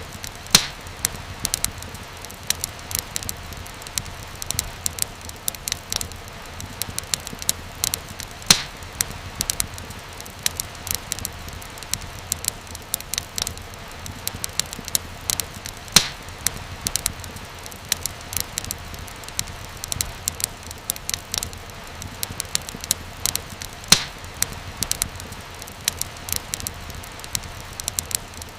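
Fireplace fire crackling: a dense run of small snaps and pops over a steady hiss, with a louder pop every several seconds.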